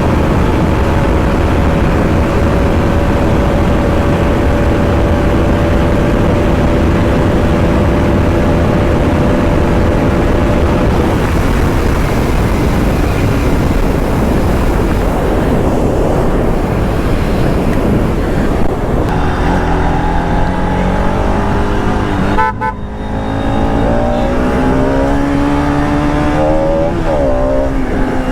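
Bajaj Pulsar RS200 single-cylinder engine under way: first a steady cruise, then, in the last third, accelerating with a rising note. About 22 seconds in the note breaks off briefly for an upshift, then climbs again.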